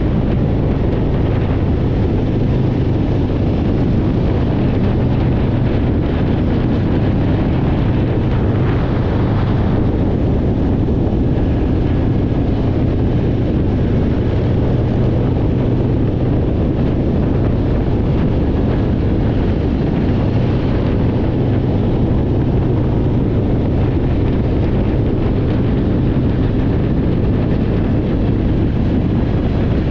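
Harley-Davidson V-twin motorcycle engine running steadily at cruising speed, with wind noise on the microphone.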